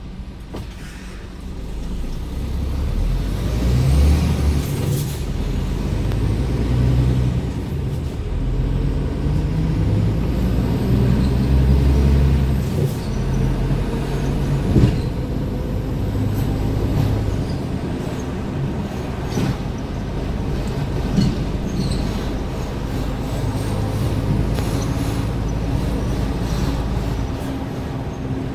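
Scania R410 truck's engine running under way with tyre and road noise, getting louder about two seconds in and changing pitch in steps as the automated gearbox shifts.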